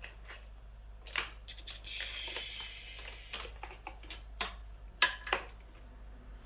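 Hands sorting through a motorcycle's wiring harness: plastic connectors and wires handled with scattered clicks and rustling, with sharper clicks about a second in and again around five seconds in.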